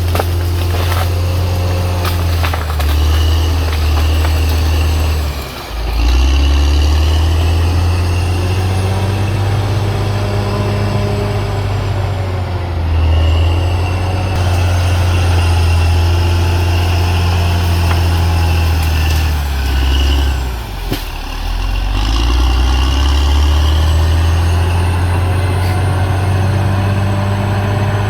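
CAT D6R XL bulldozer's diesel engine running under load, its note dropping briefly twice, about five seconds in and about twenty-one seconds in, before picking back up. A few sharp metallic knocks sound over it.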